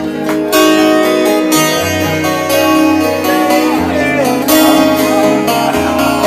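Acoustic guitar playing an instrumental passage of picked notes and strums, with held notes ringing under it and no singing.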